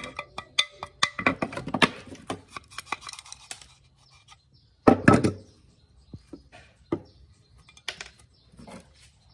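Irregular clicking and clattering of small hard objects being handled, with a louder knock about five seconds in.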